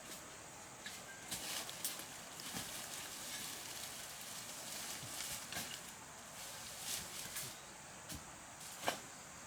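Bamboo and brush being handled by hand: rustling with scattered light knocks and cracks, and one sharper knock near the end.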